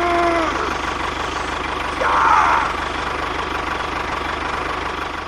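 Small engine running steadily at idle, with a fast, even low knock. A short pitched vocal sound comes at the start, and a brief brighter burst about two seconds in.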